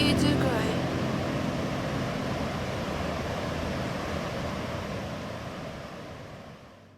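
A steady rushing noise that slowly fades out, with the last notes of a song dying away in the first half second.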